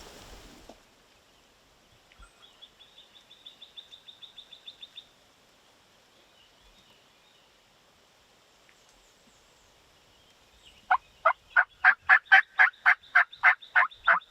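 A loud, fast series of about fifteen evenly spaced turkey yelps, beginning about eleven seconds in and lasting some three and a half seconds. Earlier, a faint, quick, high trill of short notes lasts about three seconds.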